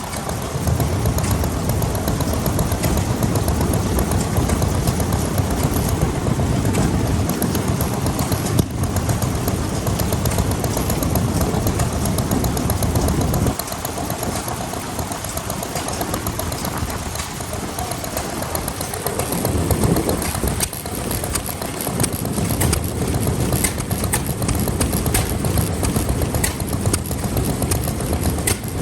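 Vintage stationary engines running steadily, with a slight drop in level about halfway through.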